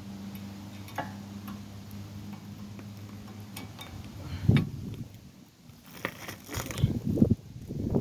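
Light metallic clicks and knocks of front brake parts being handled and fitted, over a steady low hum that stops about three and a half seconds in; a louder knock comes about four and a half seconds in, and irregular knocks and rattles follow near the end.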